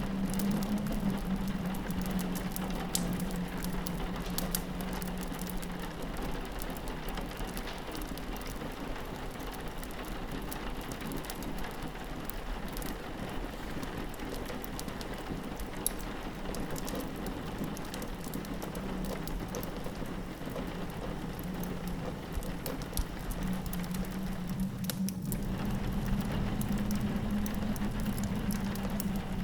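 Steady rain pattering on a window, mixed with the scattered pops and crackles of a wood fire. Under it runs a low steady drone that fades in the middle and swells back near the end.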